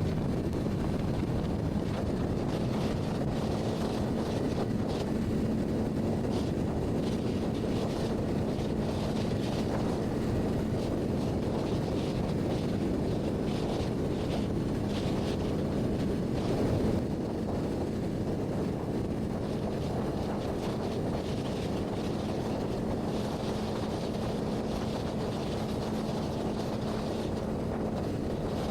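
Honda CBR600RR's inline-four engine holding a steady drone at cruising speed, with wind rushing over the microphone. The level swells slightly about seventeen seconds in, then eases a little.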